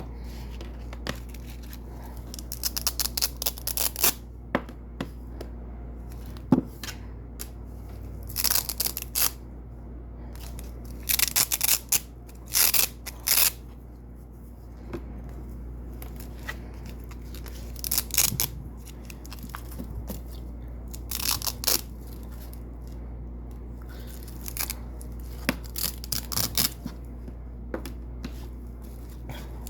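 Double-sided Velcro hook-and-loop strips being pulled off white hook strips: crackly ripping in short bursts every few seconds, some quick and some drawn out over a second or two. A steady low hum runs underneath.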